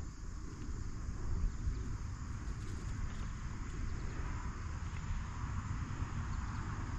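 Wind buffeting the microphone as a low, uneven rumble, over a steady outdoor background hiss with a few faint ticks.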